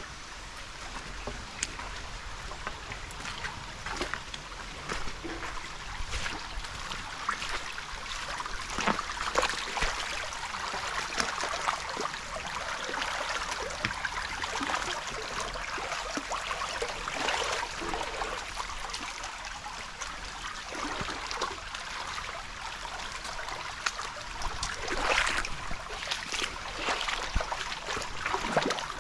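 Running water of a stream or waterfall, a steady rushing with many small splashes and drips through it.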